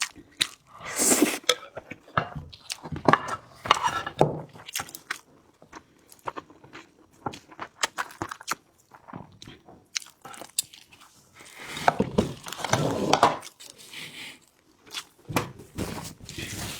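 Close-miked eating: biting, crunching and chewing, with many sharp wet mouth clicks and a few longer noisy stretches.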